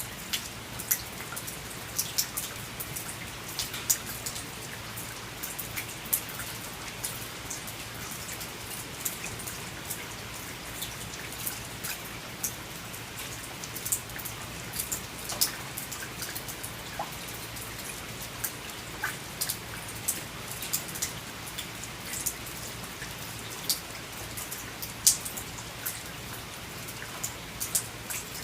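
Rain falling by a porch: a steady hiss of rain with irregular, sharp taps of single drops striking a hard surface, some much louder than the rest.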